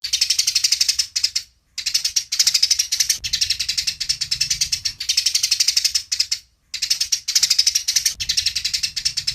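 Eurasian tree sparrow (burung gereja) giving a rapid, harsh chattering fight call: fast runs of high chirps broken by brief pauses.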